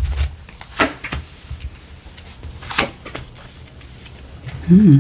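Tarot cards being handled on a table: a few sharp card snaps and taps with soft thuds, then a short hummed note from a person's voice near the end.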